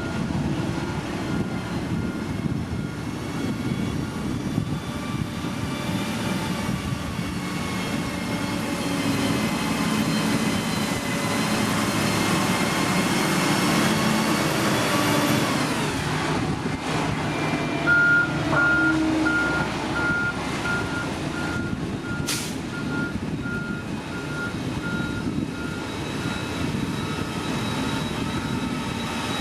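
Heavy construction machine's engine running steadily while its reversing alarm beeps in an even pulse, faint at first and loud in the latter half. One sharp click partway through.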